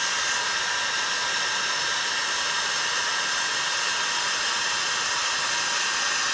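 Heat gun blowing steadily with an even whistling hiss, heating a chainsaw crankcase half so the crankshaft can be pushed into its bearing.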